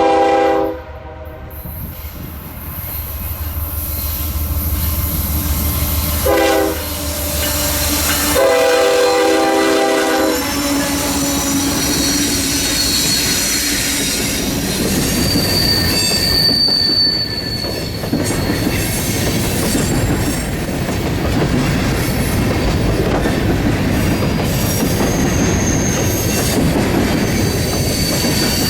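Freight train locomotive sounding its multi-tone air horn at the start, again briefly about six seconds in and longer around eight to ten seconds, over the low hum of its diesel engines. The train's cars then roll past with steady wheel-on-rail noise and a high wheel squeal now and then.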